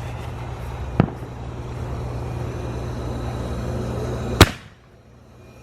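Consumer artillery shell firework fired from a mortar tube: a sharp thump about a second in, then a much louder bang about three seconds later as the shell bursts. A steady rushing background noise falls away right after the loud bang.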